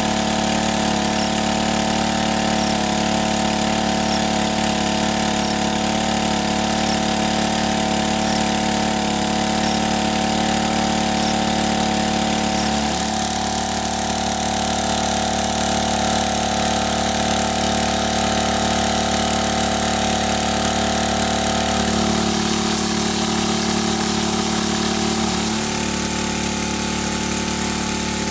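An engine running steadily, with a brief dip in pitch about halfway through.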